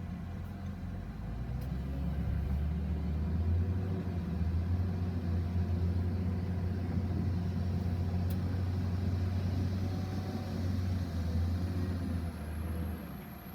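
Low, steady mechanical rumble that swells about a second in and drops off near the end, with a faint high whine rising over the last couple of seconds.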